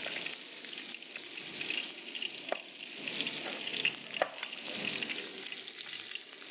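Mutton-mince kababs sizzling steadily on a hot ridged grill pan, with a few sharp knocks of a cleaver chopping boiled potato on a wooden board.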